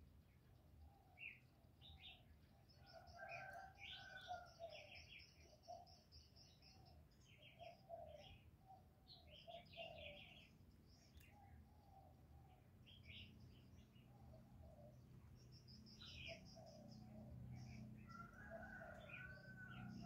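Faint bird calls: high chirps and trills of small birds, over a regular run of short, low notes repeated throughout. A low hum grows louder in the second half.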